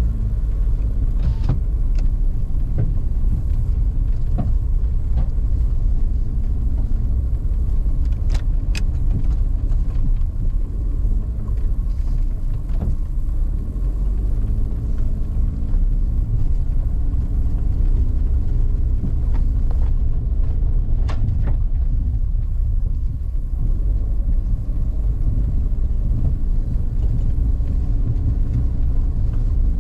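Car driving along a forest road: a steady low rumble of engine and tyres, with a few sharp clicks and knocks scattered through it.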